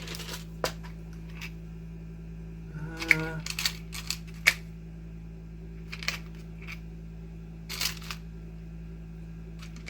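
Small parts clicking and rattling in irregular bursts as hands rummage through crimp terminals on a workbench, over a steady electrical hum.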